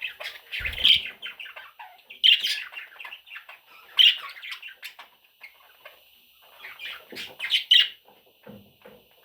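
Baby budgerigars (budgie chicks) chirping and squawking in repeated scratchy bursts, with a brief low bump just under a second in.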